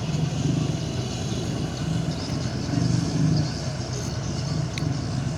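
Tugboat's engine running steadily, with a low throb that swells and eases every second or so.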